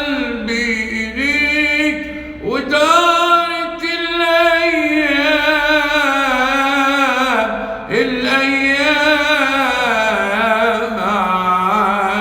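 A man singing an Arabic song in long, drawn-out ornamented phrases with heavy vibrato, three phrases in all, the second beginning about two and a half seconds in and the third about eight seconds in.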